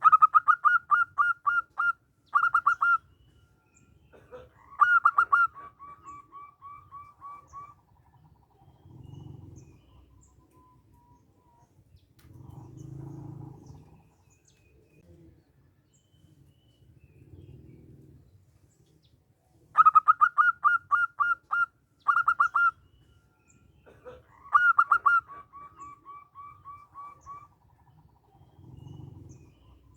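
Zebra dove (perkutut) singing: a quick run of clipped, cooing notes, a short second run, then a louder note that trails off into a longer run of softer notes. The whole phrase comes twice, about twenty seconds apart, with faint low sounds in the gaps.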